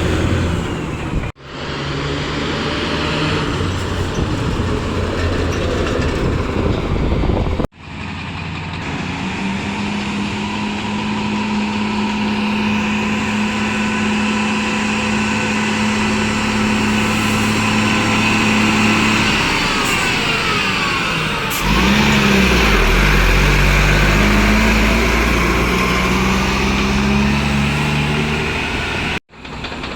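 Heavy truck engines running and revving, in several clips cut together abruptly; the loudest and deepest engine sound comes in the last third.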